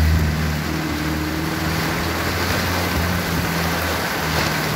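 Heavy rain pouring onto a flooded street and awning, a steady loud hiss, with the low hum of a car engine as the car drives past through the wet road.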